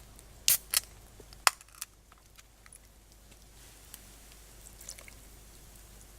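Four sharp clicks and knocks within the first two seconds, then a few faint scattered ticks.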